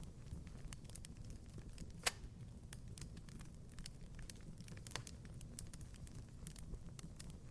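Wood fire in a fireplace crackling: scattered small snaps over a low, steady rumble, with one louder pop about two seconds in.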